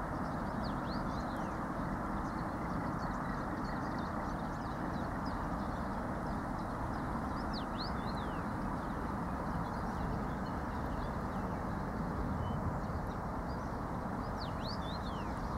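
Small birds chirping in quick, short, falling notes, in little clusters about a second in, around the middle and near the end, over a steady low rushing noise.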